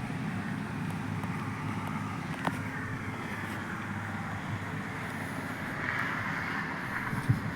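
A vehicle engine running steadily with a low rumble, with a short knock near the end.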